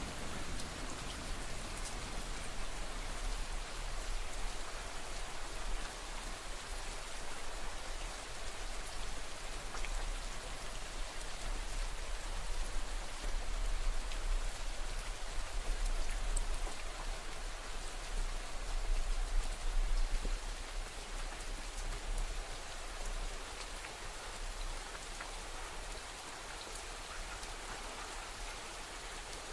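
Steady rain falling, drops pattering on a surface in an even, unbroken hiss.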